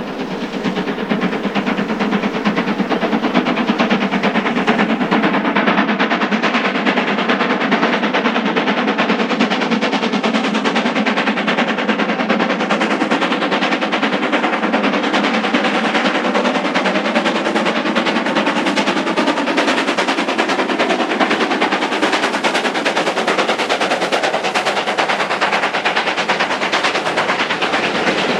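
LNER K1 steam locomotive 62005 working a train, its exhaust beating in a rapid, rattling run of chuffs, mixed with the running noise of the coaches on the rails. It grows louder over the first couple of seconds, then holds steady.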